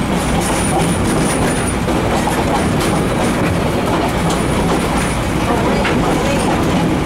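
Steady rumble and clatter of an open-air railway passenger car rolling along the track, heard from on board. A thin, high-pitched whine comes and goes above the rumble.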